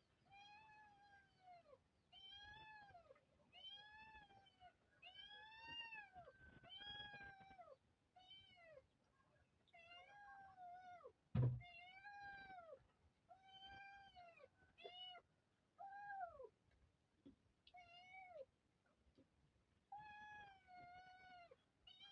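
A cat, high-pitched like a kitten, meowing over and over in short rising-and-falling calls, about one a second with brief pauses. A single sharp thump about halfway through is the loudest sound.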